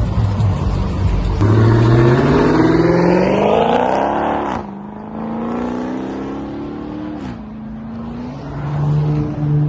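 Car engine accelerating hard: the exhaust note climbs in pitch for about three seconds and breaks off sharply, climbs again for a couple of seconds, then settles into a steady drone.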